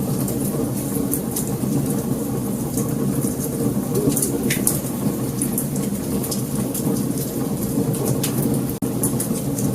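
Wood fire burning: a steady low rumble of flames with many small, sharp crackles and pops, one louder pop about halfway through. The sound cuts out for an instant near the end.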